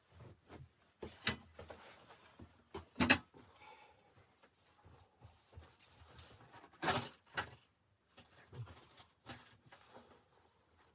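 Irregular knocks and clatter of things being handled, a string of short sharp strikes with the loudest about three seconds in and another strong one about seven seconds in.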